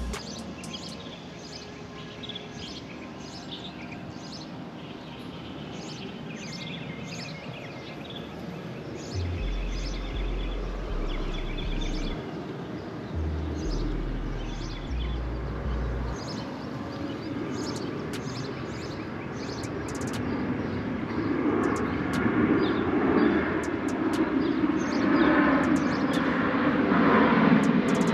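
Small birds chirping in short repeated calls, then a low rumble that swells steadily over the last several seconds, like a vehicle or aircraft approaching.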